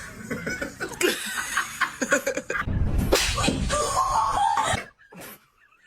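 Laughing, with a few sharp slaps or knocks among it; it cuts off suddenly near the end.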